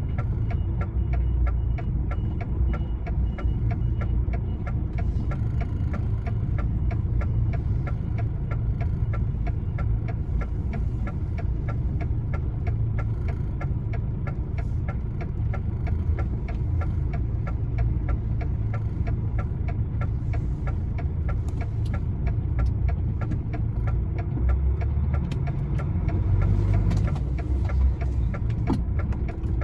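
Lorry's diesel engine running low and steady, heard from inside the cab while reversing slowly, with a regular ticking throughout.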